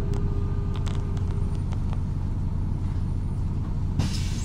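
MAZ-103 city bus running, heard from inside the passenger cabin: a steady low engine drone with a faint hum and a few light clicks and rattles. A hiss starts abruptly near the end.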